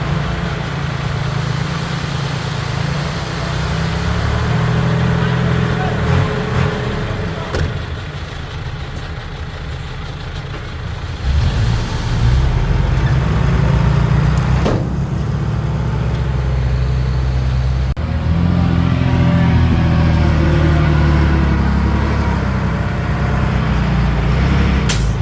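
Heavy diesel earthmoving machinery running under load, its engine note rising and falling as the load changes, with a lull about a third of the way in. A short sharp hiss comes near the end.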